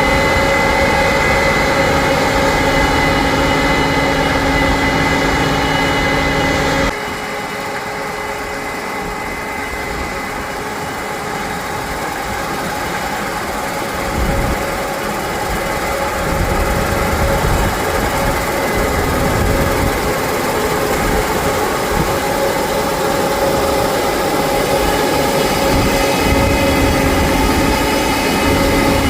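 Harvest machinery engine running steadily, with a constant whine. Its level drops suddenly about seven seconds in, then the whine gradually returns.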